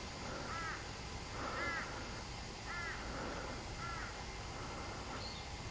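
A crow cawing four times, the calls evenly spaced about a second apart.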